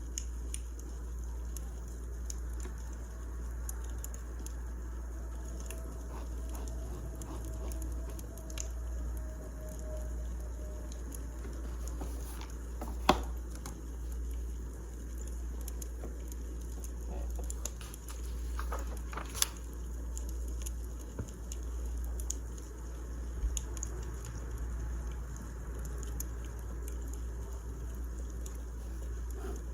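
Wood fire crackling: irregular small snaps and ticks over a low steady rumble, with two louder pops about a third and two-thirds of the way through.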